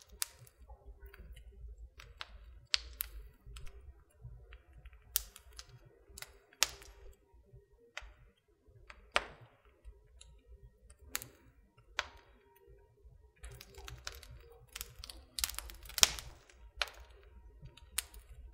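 Wood fire crackling in a fireplace: irregular sharp snaps and pops, some in quick clusters, over a faint low rumble of the flames, with the loudest pop about three-quarters of the way through.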